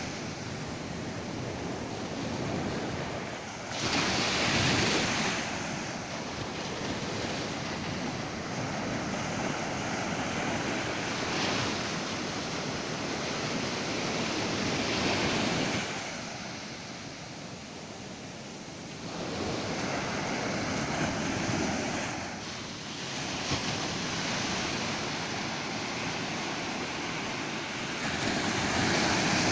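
Ocean surf on a beach: waves breaking and washing in, one after another. The sound swells several times, with a quieter lull in the middle.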